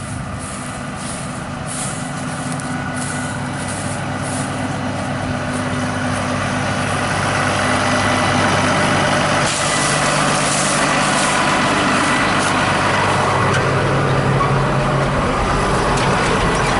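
Diesel engine of heavy harvest machinery running steadily under load, with a constant low hum and broad mechanical noise. It grows louder over the first several seconds, then holds level.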